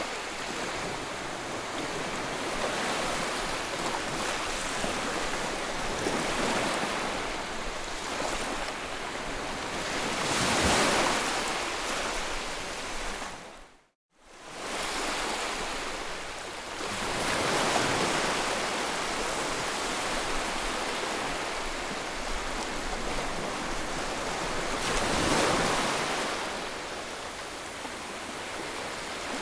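Ocean surf: waves washing in as a steady hiss that swells and ebbs every several seconds. About halfway through, the sound fades briefly to silence and returns, like a loop splice in the recording.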